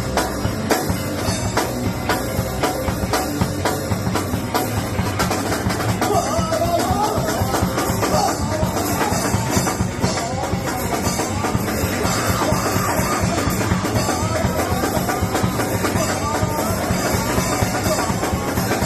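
Loud live rock music: a band with a drum kit pounding out fast, dense beats over bass and guitar. About six seconds in, a higher wavering melodic line joins on top.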